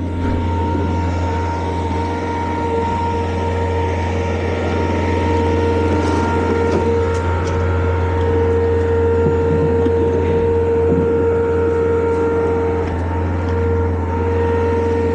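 Skid-steer loader's engine running steadily under load, a constant low drone with a steady whine over it.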